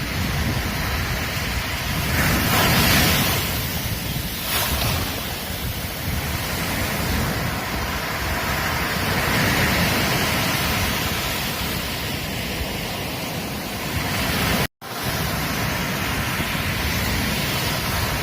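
Ocean surf breaking on a beach, a continuous wash of noise that swells several times as waves come in. The sound cuts out for an instant about three-quarters of the way through.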